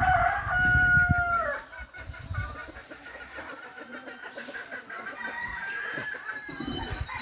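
A rooster crowing once, a long held call of about a second and a half that drops at the end, followed by fainter clucking and chicken calls.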